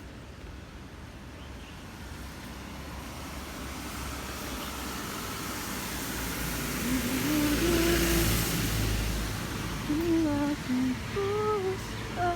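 A vehicle approaches and passes, its noise swelling to a peak with a low rumble about two-thirds of the way through. In the last few seconds a voice hums short stepped notes.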